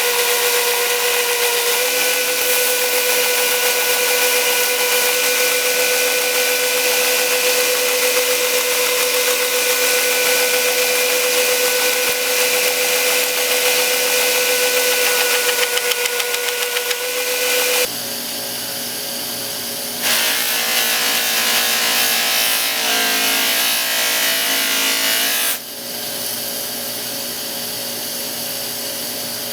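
Power sanding machine running while metal is ground and sanded against it: a steady motor hum under the hiss of abrasive on metal. The sound changes abruptly about 18 seconds in and again a little later, as the work is shifted or lifted and pressed again.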